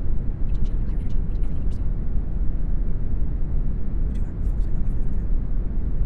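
Steady brown noise, a deep even rushing hiss weighted toward the low end. Faint high sibilant flecks come through twice, about half a second in and again around four seconds in, from the subliminal affirmation voice layered underneath.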